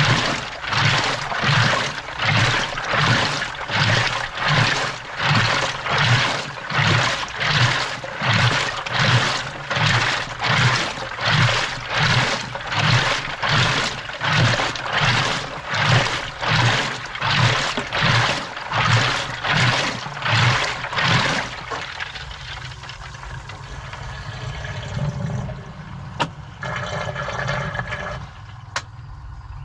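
Washing machine drum tumbling a load in water, heard from inside the drum: a regular rhythmic sloshing, about three surges every two seconds. About 21 seconds in the sloshing stops, leaving a quieter steady rush of water with a couple of sharp clicks.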